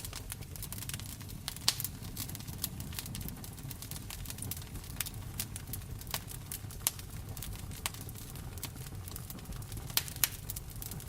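Wood fire crackling in a fireplace, with irregular sharp pops, the loudest about two seconds in and near the end, over a steady low rumble of rain.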